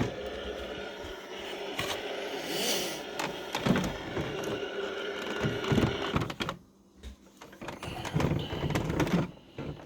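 Hard plastic Millennium Falcon toy being handled, with several sharp clicks and knocks over a steady hum that drops away about six and a half seconds in.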